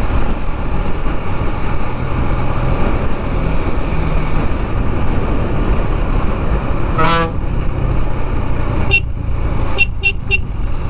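Riding noise from a KTM Duke 390 in traffic: a steady rumble of engine and wind. About seven seconds in a vehicle horn honks briefly, followed a couple of seconds later by a few short high beeps.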